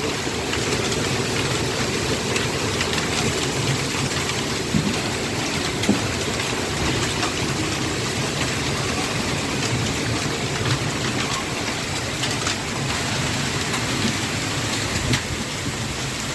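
Hailstorm: hail and rain falling hard and steadily in strong wind, with scattered sharp cracks of individual hailstones striking.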